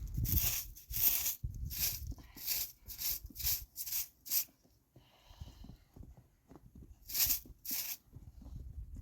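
Footsteps in snow, about two steps a second, stopping for a couple of seconds, then two more steps.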